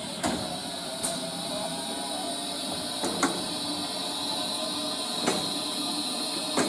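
A railway train running, a steady rumble and hiss with a high whine, broken by a handful of sharp clicks every second or two.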